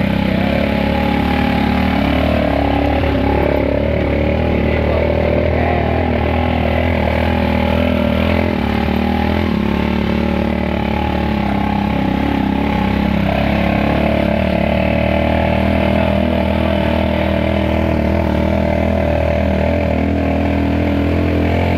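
Small motorcycle engine of a cargo tricycle running steadily as it pulls the loaded tricycle along a dirt trail, its speed nearly constant with a slight change about nine seconds in.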